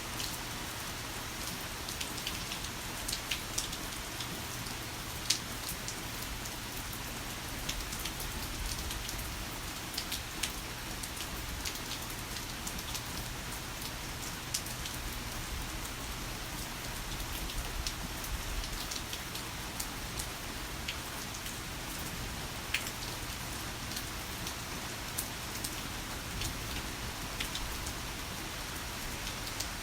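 Heavy rain falling steadily, with the sharp ticks of individual drops scattered through it.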